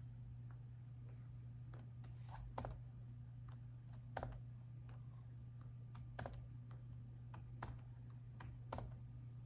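Laptop keyboard keys pressed slowly and unevenly, about ten scattered keystrokes with pauses between them, over a steady low hum.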